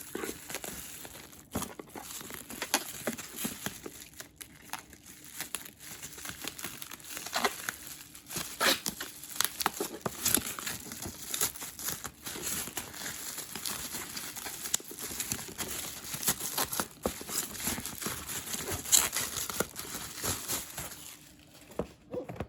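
Plastic bubble wrap being slowly unwrapped by hand, crinkling with many irregular sharp crackles that die down shortly before the end.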